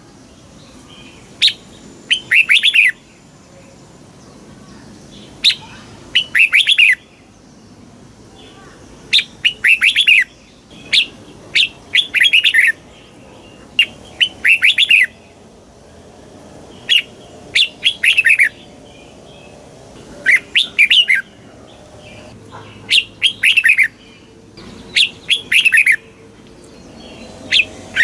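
Red-whiskered bulbul singing: short phrases of quick, bright notes, repeated every second or two.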